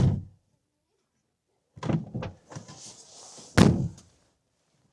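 Car door latch and door being worked by hand. There is a thunk at the start, two latch clicks about two seconds in, and a heavier thunk a little after three and a half seconds. This is the inside door release being tested after its stretched pull cable was adjusted.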